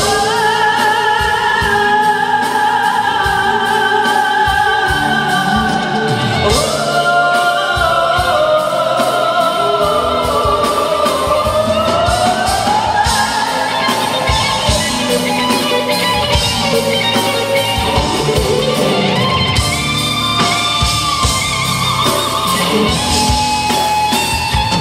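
Live band music with a beat. A long-held lead melody slides slowly up and down in pitch, in a passage with no lyrics between sung verses of a pop song.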